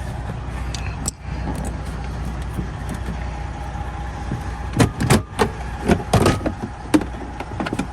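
Plastic dash trim panel being pulled free and handled, giving a quick run of sharp clicks and knocks in the second half, over a steady low hum.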